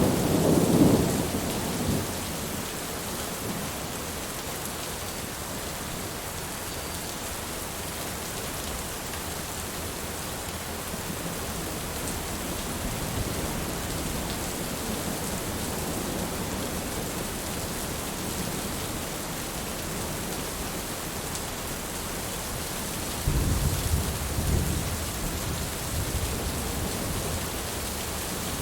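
Steady heavy rain falling, with thunder: a rumble dying away in the first couple of seconds, and another starting suddenly about 23 seconds in and fading over a few seconds.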